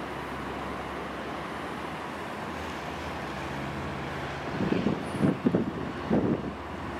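Steady hum of distant road traffic, with a few irregular low bumps over the last couple of seconds, like wind buffeting the microphone.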